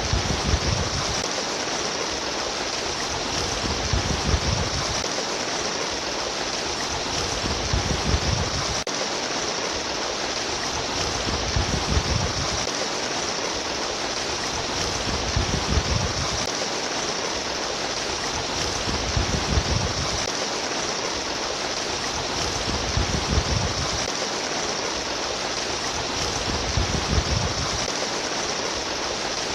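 Running water babbling steadily, with a low surge coming back about every four seconds.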